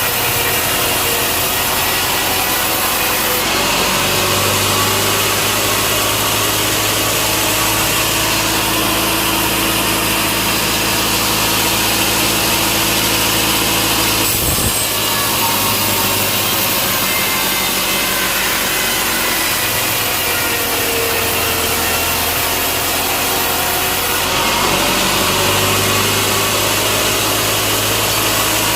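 Sawmill saw running and cutting through a large log, a loud steady noise whose pitch wavers slowly as the cut goes on, with a brief knock about halfway.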